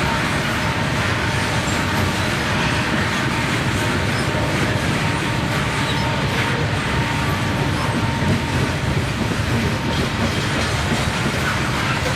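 Freight train rolling past on the rails: steady, loud wheel-and-rail noise from the cars with a faint steady whine running underneath.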